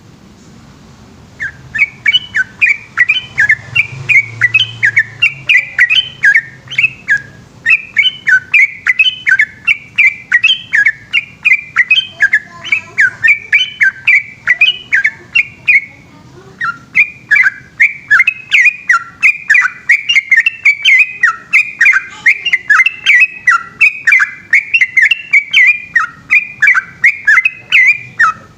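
Yellow-vented bulbul singing a long, fast run of repeated chirping notes, starting about a second and a half in, with one short break about halfway through.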